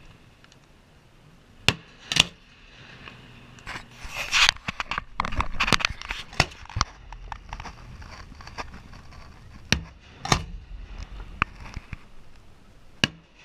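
Fireworks bursting: a couple of sharp bangs, then a dense run of crackling pops about four seconds in, and scattered single bangs near the end.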